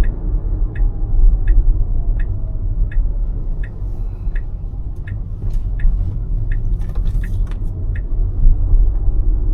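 Turn-signal ticking at an even pace of about one tick every three-quarters of a second, over a steady low road and tyre rumble inside a Tesla's cabin.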